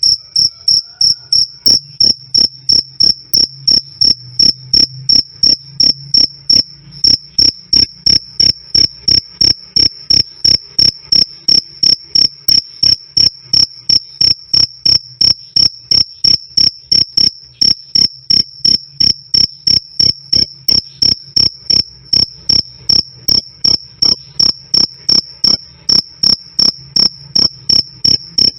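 Cricket chirping steadily: a loud, clear, high-pitched chirp repeated about two to three times a second, with a faint low hum beneath.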